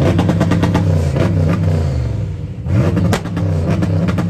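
Fox-body Ford Mustang engine revved hard through a loud exhaust and held high. It dips about two and a half seconds in, then is blipped up again with a sharp pop.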